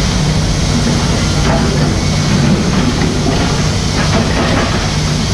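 Mini excavator's diesel engine running steadily at a constant, even level.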